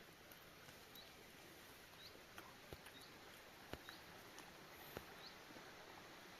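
Quiet forest background with faint, short, high chirps repeating roughly once a second, with a few soft clicks or snaps in between.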